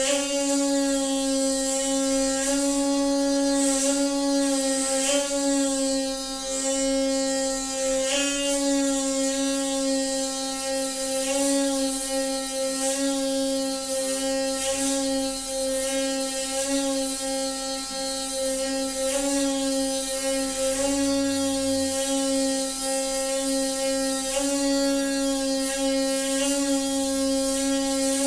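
Noisy water pipe giving a steady buzzing hum at one unchanging pitch, with a light rattle running through it.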